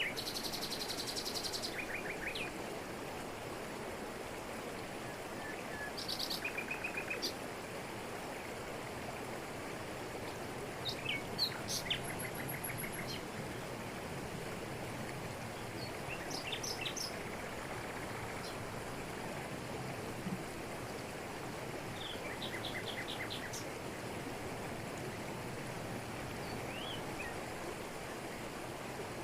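Waterfall splashing onto rocks as a steady rush, with birds calling above it: short chirps and rapid trills every few seconds, busiest in the first half.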